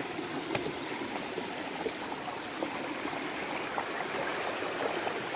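Running water, like a small stream, with an even rushing sound and small irregular bubbling ticks.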